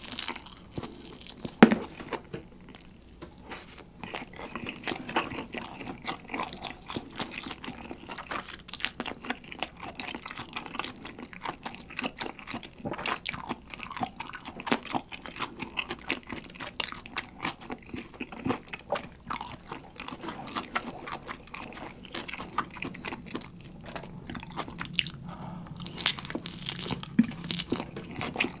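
A person biting and chewing pizza close to the microphone: a steady run of small mouth clicks, with one sharp, loud click about a second and a half in.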